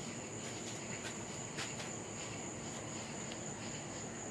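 Crickets chirring steadily in a continuous high-pitched drone, with a faint click about a second and a half in.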